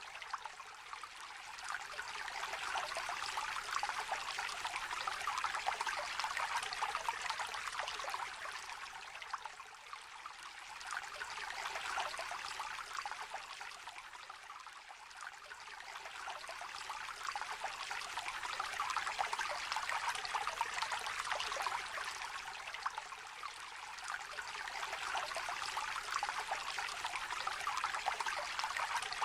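Shallow river water trickling and babbling over stones, a steady rush of water that swells and eases every several seconds.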